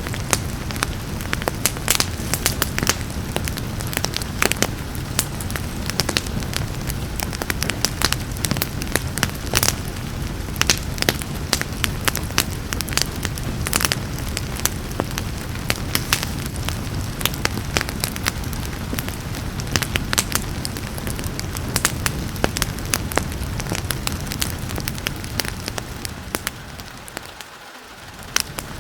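Wood fire crackling, with many sharp pops and snaps over a steady hiss of rain and a low rumble of the flames. Near the end the whole sound briefly fades lower and then comes back.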